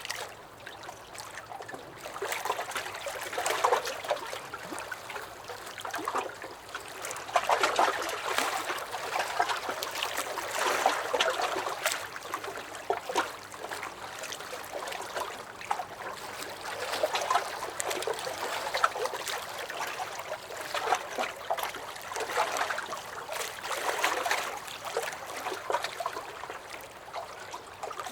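Small lake waves lapping and sloshing against a dock, swelling and easing every few seconds with small splashes and trickles of water.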